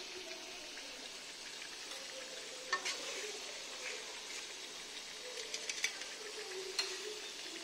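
Chicken pieces sizzling in hot oil in a karahi, with a steady hiss. A metal skimmer stirring them clinks and scrapes against the pan a few times, once about three seconds in and several times near the end.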